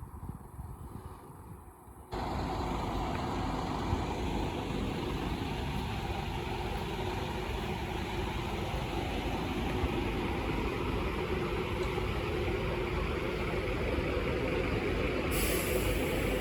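Scania K270UB bus's diesel engine idling steadily, coming in suddenly about two seconds in after a faint low rumble. A high hiss joins near the end.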